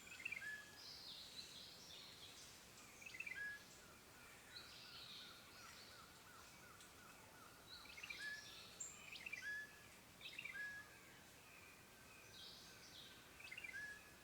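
Faint woodland birdsong: several birds giving short high chirps and twittering phrases every second or two, with a quick run of notes in the middle, over a soft background hiss.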